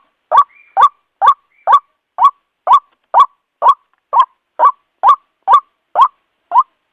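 White-breasted waterhen repeating its short croaking "kwak" call about twice a second, in an even, unbroken series of about fourteen calls.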